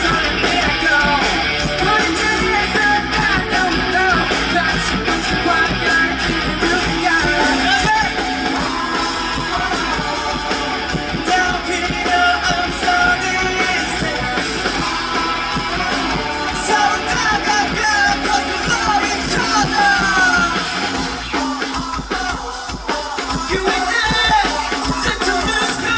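Live rock music: a band playing, with guitar and a singer's voice over it.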